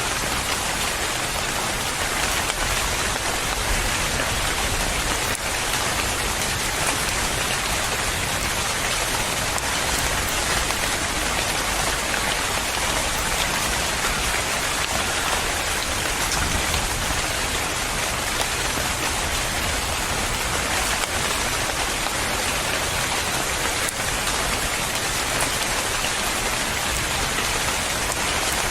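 Steady rain falling on a surface, an even hiss speckled with individual drops, with no change in strength.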